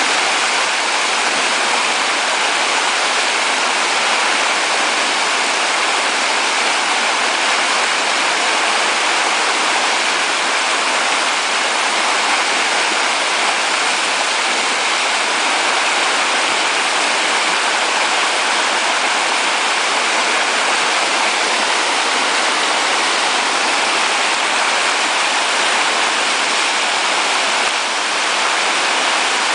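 Steady, loud rush of river whitewater, the churning wave that the kayaks are surfing.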